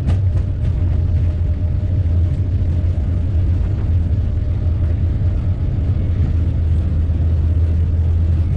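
Airplane engines and airframe giving a loud, steady low rumble, heard from inside the cockpit during takeoff.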